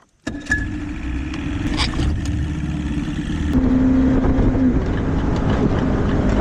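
Boat motor running steadily with a low rumble, growing louder about three and a half seconds in as it is throttled up, then cutting off suddenly.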